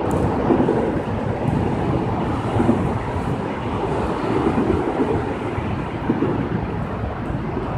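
Heavy rain falling in a steady, deep rushing noise.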